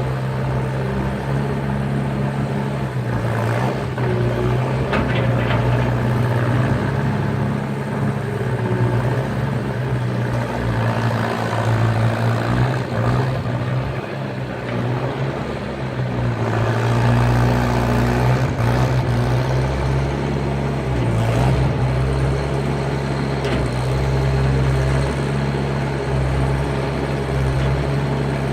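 Skid steer engine running steadily while working, its pitch shifting a little with load. The low rumble gets heavier a little over halfway through.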